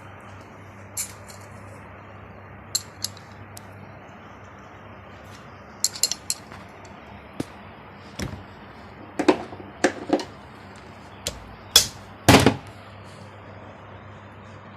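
Scattered metallic clicks, clinks and knocks of hand tools and parts as a car AC compressor is opened to check its oil, with the loudest knocks near the end.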